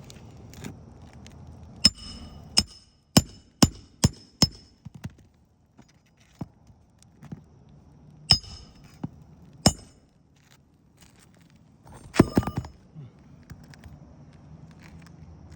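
Roof snake being worked under asphalt shingles to break their seal strips: a run of sharp, slightly ringing clicks and cracks, six close together early on, two more a few seconds later, then a rapid cluster near the end.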